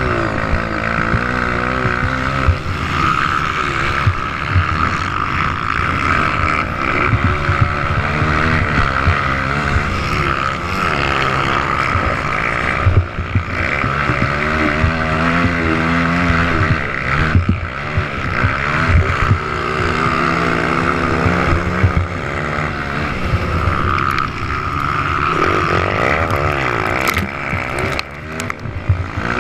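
Motocross bike engines revving up and dropping back again and again as several bikes ride the track, their pitches overlapping and gliding up and down.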